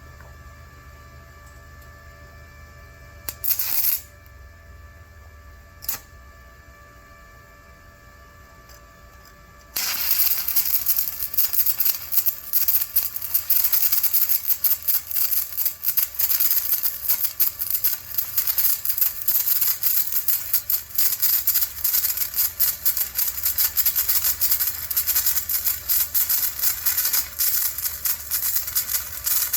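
Stick (flux-coated rod) welding arc: a brief burst of crackle about three seconds in and a click near six seconds, then from about ten seconds on a loud, steady, dense crackle of the arc burning the rod.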